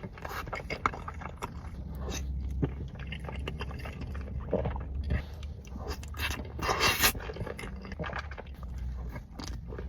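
Close-miked eating of boxed mac and cheese: a utensil scraping in the container and soft, wet chewing and small clicks, with one louder scrape about two-thirds of the way through.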